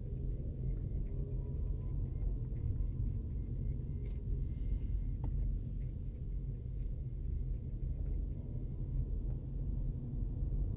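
Cabin of a 2018 Honda Clarity plug-in hybrid driving slowly: a steady low road rumble, with a faint pulsating noise that comes and goes like morse code.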